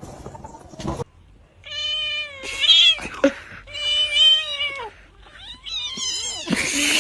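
Domestic cat giving three long, drawn-out meows, each about a second long with short gaps between them. A rough noise fills the first second, and another comes near the end.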